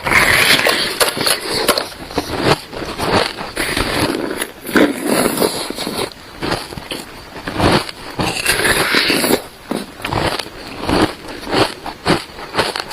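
Frozen milk ice being bitten and chewed close to the microphone: repeated irregular crunching and crackling bites.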